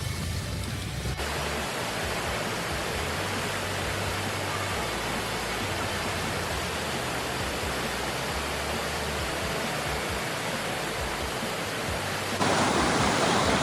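Waterfall: a steady rush of falling water, jumping suddenly louder near the end.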